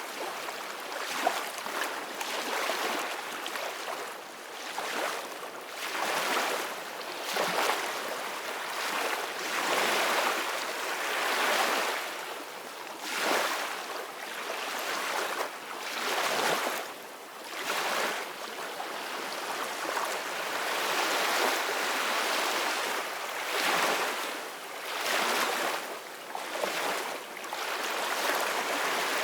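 Ocean waves breaking and washing on the shore, a steady hiss of surf that swells and falls every few seconds.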